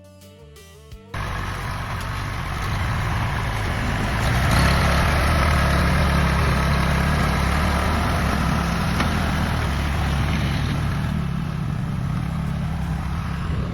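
A truck's engine runs with a heavy, steady rumble that grows louder from about four seconds in, as a rock-hauling truck sets off for another load. A short snatch of background music ends about a second in.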